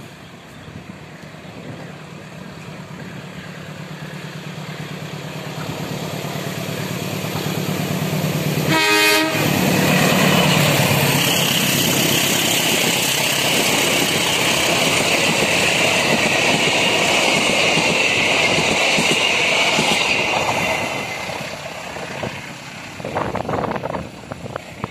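Indonesian KAI diesel passenger train passing close by. The locomotive's engine hum grows louder as it approaches, then about 9 seconds in the coaches begin rolling past with a loud steady rush of wheels on rail and a high hiss. The noise fades after about 20 seconds, with a few clacks near the end.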